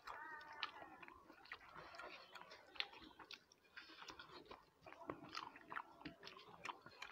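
Close-miked chewing and wet mouth sounds of a person eating rice and curry by hand, with many short sharp smacks and clicks.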